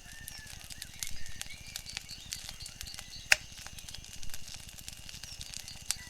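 Wood fire crackling with scattered sharp pops, one much louder pop a little past halfway, over a low steady rumble.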